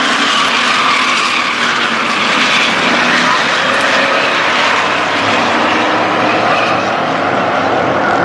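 Engines of a field of oval-track racing trucks running at speed around the track, a loud steady drone with no break.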